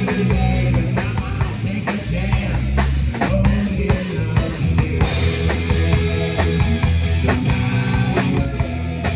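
Live rock band playing, with the drum kit keeping a steady beat of kick and snare over bass and guitar.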